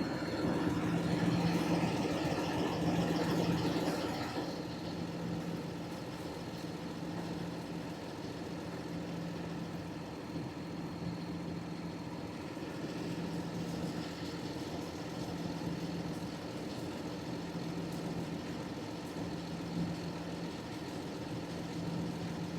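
An engine idling steadily, a constant low hum. Over the first four seconds a louder rushing noise sits on top of it.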